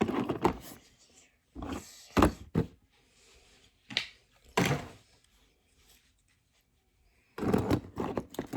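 Handling noise from a toy car and its packaging: a few short knocks and thunks, with rustling between them and a busier clatter near the end.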